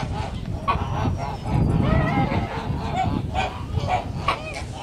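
Domestic geese honking, a string of short repeated calls from several birds.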